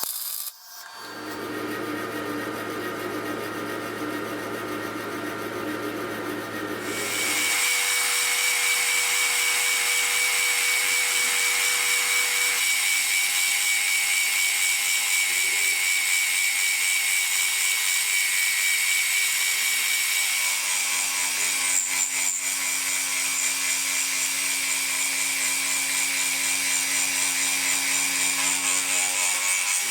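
An electric power tool running steadily. About a quarter of the way in, it gets louder and noisier with a high whine, as the tool bites into material.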